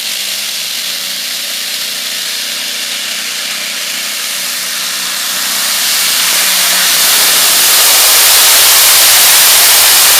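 Free-class pulling tractor running at full power during a pull, a loud hissing engine noise that swells from about halfway and stays at its loudest to the end.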